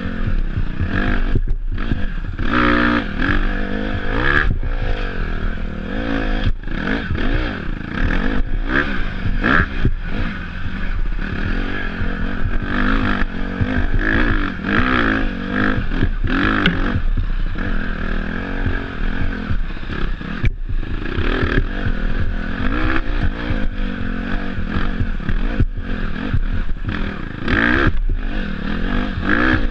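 Off-road dirt bike engine revving up and down as it is ridden, its pitch rising and falling every second or two, with clattering and knocks throughout.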